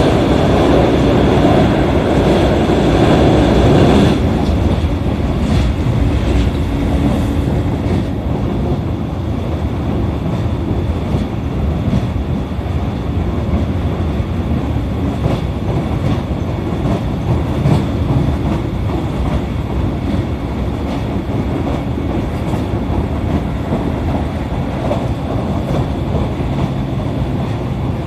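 JR East E531-series electric multiple unit running at speed, heard from inside the car: a steady rumble of wheels on rail with scattered rail-joint clicks. The noise drops noticeably about four seconds in.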